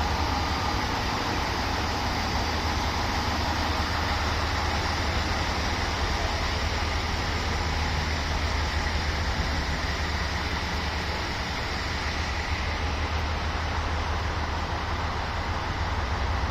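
Steady low hum and hiss of a standing diesel railcar idling, unchanging throughout.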